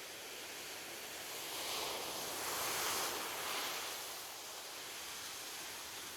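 Gentle ocean waves: a wave breaks and washes up the shore, swelling to its loudest about three seconds in and then fading back into a steady hiss of surf.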